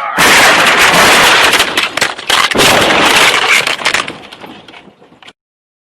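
A vehicle crash: a sudden, very loud burst of banging and crashing noise that lasts about four seconds, then fades away and cuts off abruptly.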